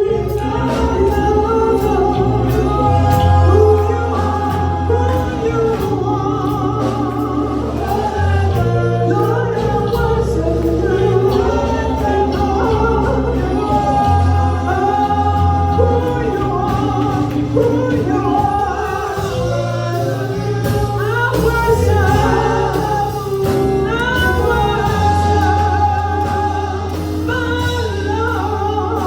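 Gospel music: voices singing over instrumental accompaniment with a bass line of held low notes and steady percussion.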